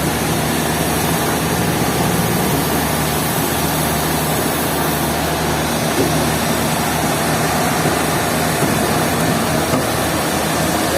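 Heavy sawmill machinery running steadily: a constant engine drone under a loud, even mechanical noise.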